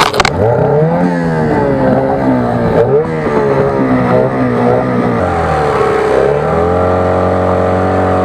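An engine revving up and down unevenly, then settling to a steady speed about five seconds in.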